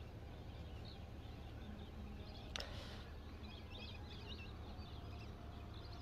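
Faint chirping of birds, scattered short calls over a low steady rumble, with one brief sharp click about two and a half seconds in.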